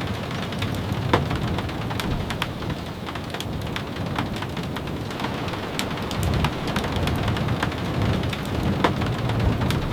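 Steady rain, with many scattered sharp ticks of drops tapping throughout over a full low rush.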